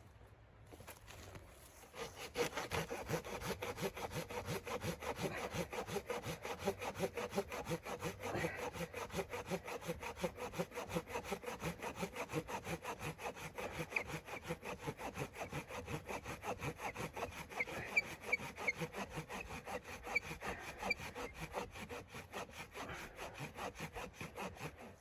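Hand saw cutting through wood in fast, even back-and-forth strokes, about four a second, starting about two seconds in and stopping just before the end.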